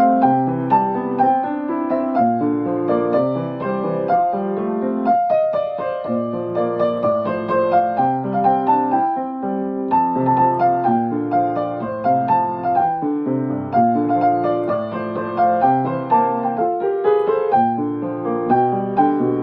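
Piano-toned keyboard playing an ear-copied arrangement of a Hokuriku Shinkansen train melody: a tune over steady chords in an even rhythm.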